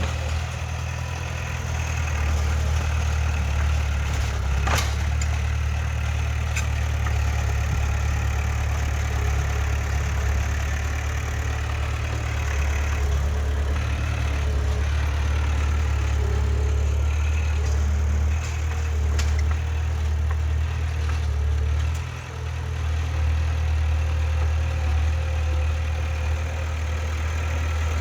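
Heavy diesel earthmoving machine engine running steadily with a deep rumble. A few sharp metallic clicks or clanks come over it, and the engine dips briefly near the end.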